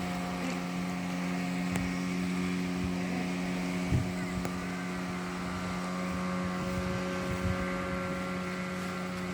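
Motorboat engine running at a steady pitch, with a single thump about four seconds in.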